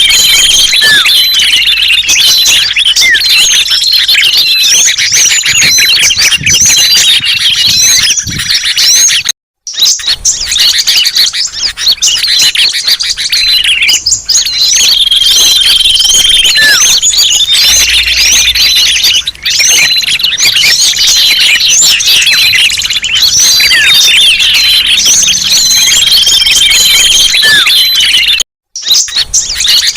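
Bird-lure recording of a dense chorus of many small songbirds chirping and twittering at once, with a held whistle recurring now and then. The sound cuts out briefly twice.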